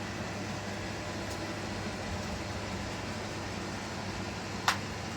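Robot vacuums running with a steady hum, and a single sharp knock near the end.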